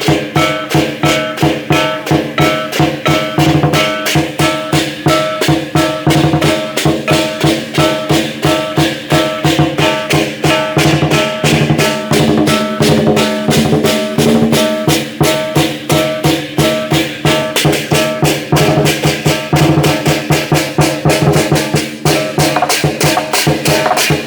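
Chinese lion dance percussion band playing a fast, steady beat: a drum struck about four times a second together with clashing cymbals, over the sustained ringing of a gong.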